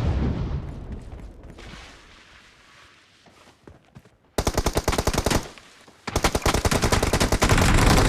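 Video game automatic gunfire: a low rumble fading out at first, then a short burst of rapid shots about four seconds in, and a longer run of rapid fire starting about a second later.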